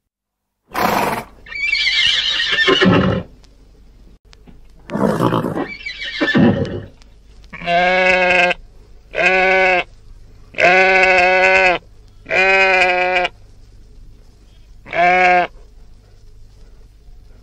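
Farm animals calling: two rough, hoarse calls in the first seven seconds, then a run of five clear, drawn-out calls, each held at an even pitch for half a second to a second.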